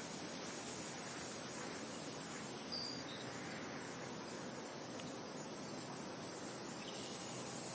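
Steady rushing wind noise, even and unbroken, with a short high chirp about three seconds in.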